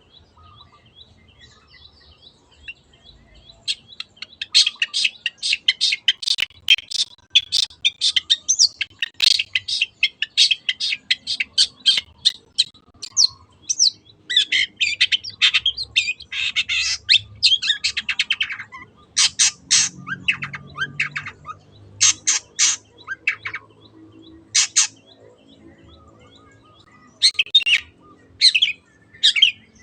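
Long-tailed shrike (cendet) singing: faint chirps at first, then from about four seconds in long strings of rapid, harsh chattering notes, broken into shorter bouts with pauses later on.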